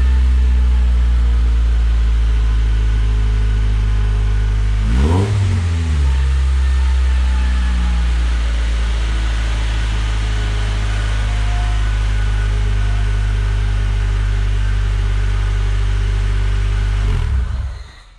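Honda Civic EK hatchback's four-cylinder engine idling through a newly fitted HKS Hi-Power exhaust, with one quick rev about five seconds in. The engine is switched off near the end.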